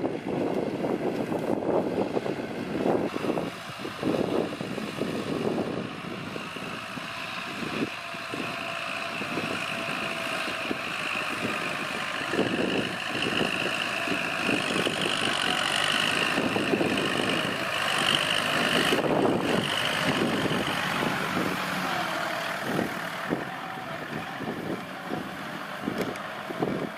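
Kubota L4708SP diesel tractor running steadily under load while working a rotary tiller through the soil, with a steady high whine over the engine.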